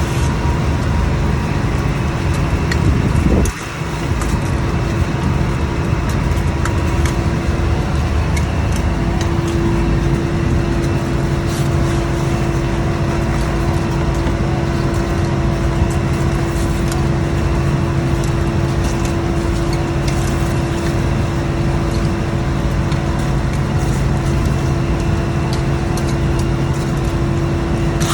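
Scallop fishing boat's engine and machinery running with a steady, loud drone and a fixed-pitch hum, dipping briefly about three and a half seconds in.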